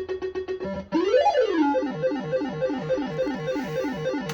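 Bell-Fruit Wild Cats fruit machine playing its electronic sound effects. A fast repeated beeping tone gives way, about a second in, to a rising-and-falling sweep, then to a run of falling bleeps about four a second that stops suddenly at the end.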